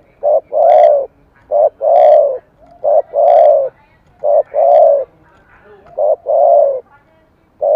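Spotted dove cooing in repeated two-note phrases, a short note then a longer one, about six times at even spacing. Bird keepers class this voice type as 'thổ cấn sấm'.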